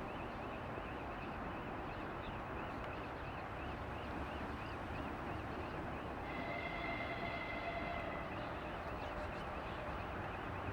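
2TE116 diesel locomotive running at a distance, a steady low rumble that neither rises nor falls.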